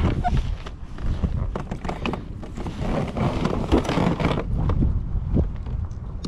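Wind buffeting the microphone with a steady rumble, over a run of scattered knocks and clatter as a freshly caught fish is handled for measuring on the kayak.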